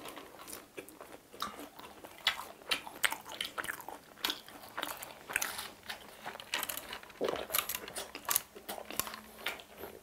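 Crunching and chewing of crispy fried chicken bites, close up: a run of short, sharp, irregular crunches.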